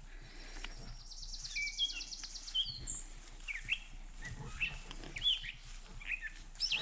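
Woodland songbirds singing: a rapid, high trill for the first couple of seconds, then a run of short, slurred whistled notes.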